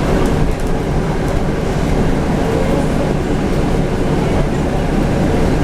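Scania N250UD double-decker bus running along with its five-cylinder diesel engine: a steady low rumble of engine and road noise with a faint whine rising and falling around the middle.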